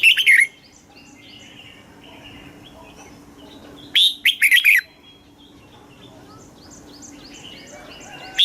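Red-whiskered bulbul singing short, loud phrases of several quick whistled notes: one at the start, another about four seconds in, and a third beginning at the very end. Fainter runs of quick high chirps fill the gaps between phrases.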